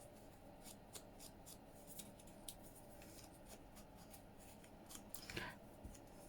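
Faint quick taps of an ink pad dabbed around the edges of paper, with a brief louder paper rustle about five seconds in.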